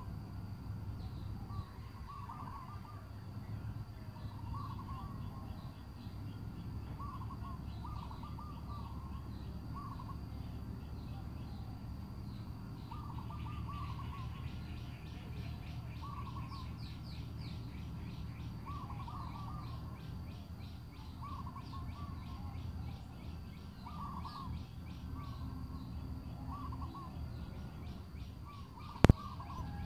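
Birds calling in short repeated phrases every couple of seconds, with a fast high ticking trill joining about halfway through, over a steady low rumble. A single sharp knock near the end is the loudest sound.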